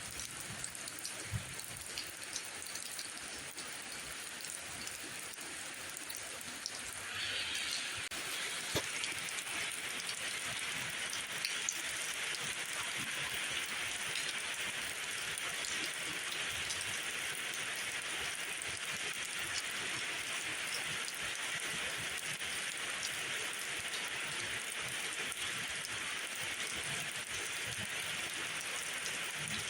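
Steady rain falling, an even hiss dotted with scattered sharp drop ticks, growing louder and denser about seven seconds in.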